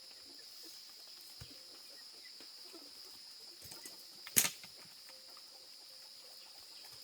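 Steady high-pitched insect drone in forest ambience, with a few faint ticks and one short, sharp knock or rustle about four seconds in.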